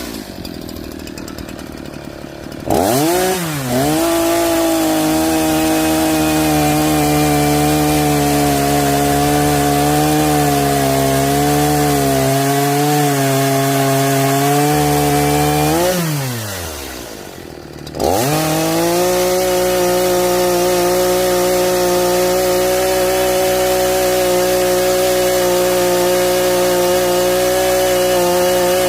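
Echo CS-4910 two-stroke chainsaw cutting wood. It settles to idle at first, opens up about three seconds in and runs at high revs with its pitch wavering under load, drops back to idle for a couple of seconds past the middle, then revs up again and holds a steady high pitch.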